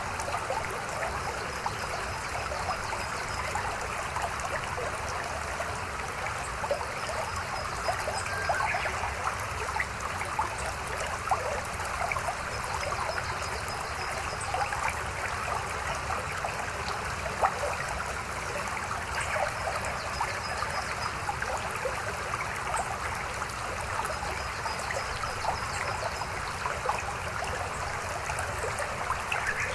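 Shallow river burbling and trickling steadily over rocks, with frequent small splashes.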